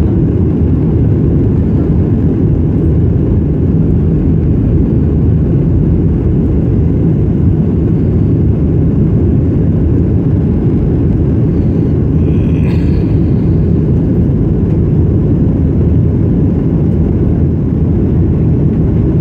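Steady, loud low rumble of an airliner's engines and airflow, heard from inside the passenger cabin.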